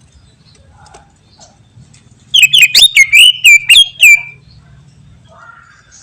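Cucak ijo (greater green leafbird) singing: after a few faint chirps, a loud, quick run of about eight sharp, downward-sweeping whistled notes starts a little over two seconds in and lasts about two seconds. A low hum runs underneath.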